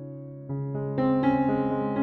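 Background music: soft electric piano chords, a new chord coming in about half a second in and more notes joining about a second in.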